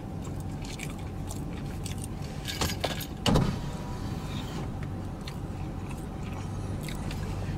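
Mouthful of burger being chewed, with a few short clicks and smacks, the loudest about three seconds in, over a steady low hum inside a car.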